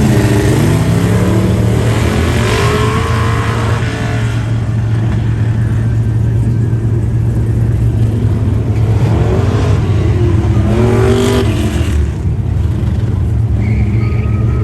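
Car engine revving hard on an autocross course, its pitch climbing and dropping as it accelerates and shifts. This happens in two spells, in the first few seconds and again about nine to twelve seconds in, over a steady low hum.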